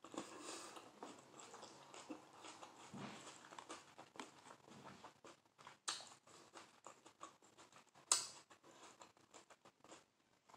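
Close-up chewing of a romaine lettuce and salmon wrap: soft wet crunching and mouth clicks, with sharper crunches about six and eight seconds in.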